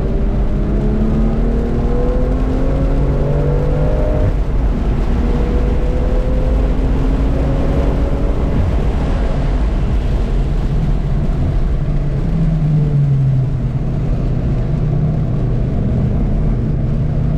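Car engine on a race track accelerating hard, its pitch rising for about four seconds, then dropping with an upshift and rising again until about eight seconds in. After that it settles into a lower, steadier note, with constant road noise underneath.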